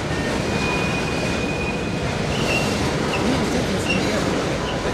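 Norfolk Southern mixed freight train rolling past slowly, its wheels giving a steady rumble on the rails. A thin, high wheel squeal holds for about two seconds near the start, then breaks into short squeaks.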